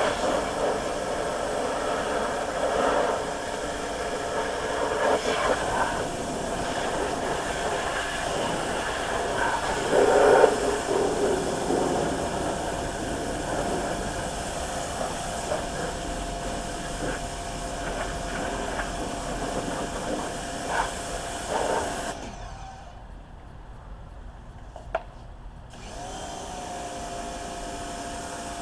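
A small motor-driven tool running with a steady whine over a rushing noise. It is switched off about 22 seconds in and restarted about four seconds later, the whine rising as it spins back up.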